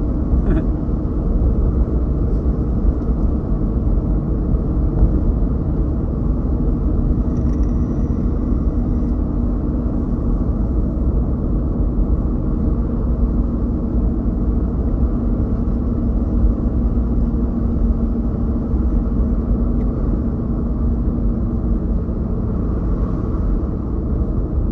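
Steady road and engine noise inside a moving car's cabin: a constant low rumble with a faint steady hum.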